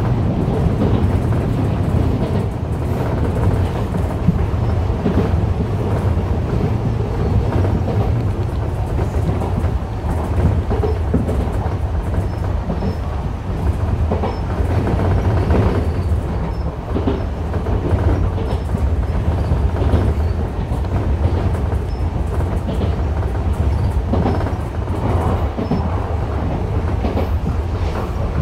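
Enshu Railway 2000 series electric train running along the line, heard from inside the front car: a steady rumble of wheels on rails with repeated rail-joint clicks.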